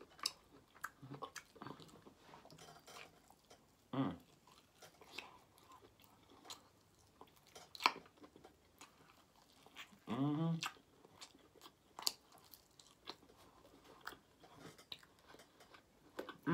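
A person biting and chewing meat off barbecued pork ribs close to the microphone, with many small wet mouth clicks and smacks. Two short sounds from the voice come about four seconds in and again about ten seconds in.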